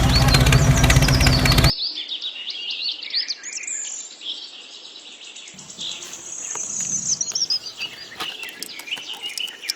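Loud steady running of a small motor that cuts off suddenly about two seconds in, followed by many small birds chirping and calling.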